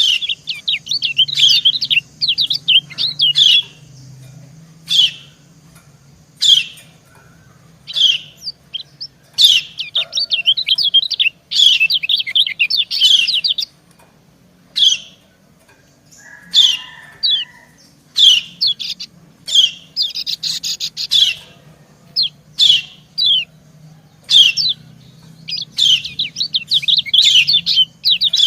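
Female white-eye giving its 'ciak' calls: short high chirps, some single and spaced a second or two apart, others in rapid chattering runs lasting a few seconds.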